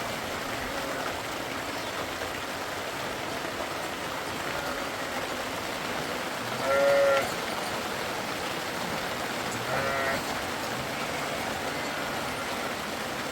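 Steady rushing water, with two short livestock bleats, the first about seven seconds in and the louder of the two, the second about ten seconds in.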